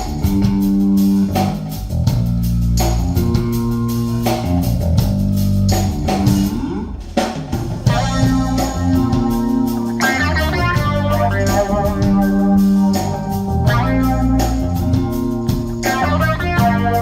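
A band playing an instrumental passage with electric guitar, bass guitar and drums, with no singing.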